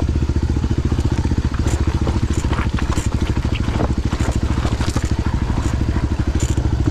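Motorcycle engine running at steady low revs, a fast even beat with no change in speed, with a few light clicks and crackles over it.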